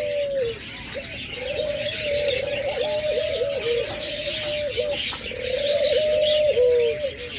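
Captive doves cooing, a near-continuous run of wavering low coos, over constant high chirping from smaller cage birds.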